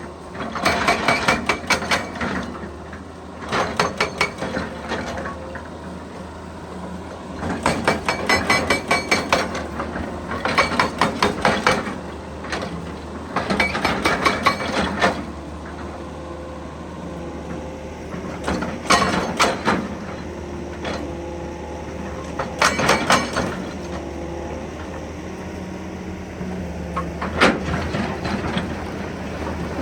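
Excavator-mounted hydraulic breaker hammering rock in repeated short bursts of rapid blows, over the steady drone of the excavator's engine.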